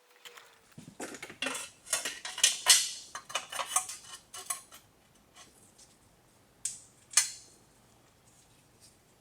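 Metal objects clinking and clattering: a quick run of sharp clinks for a few seconds, then two single clinks.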